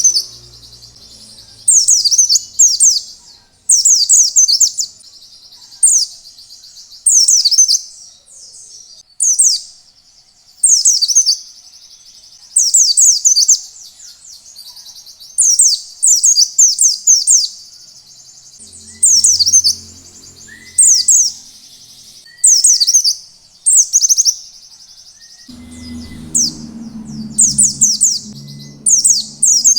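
White-eye (pleci) singing in the wild 'ngalas' style: short clusters of fast, high chirps repeated every second or two. A low hum comes in twice in the second half.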